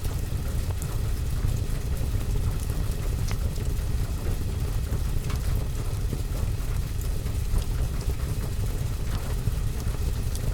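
Rain pattering on a window and roof over a fireplace, with scattered sharp crackles and a steady low rumble underneath.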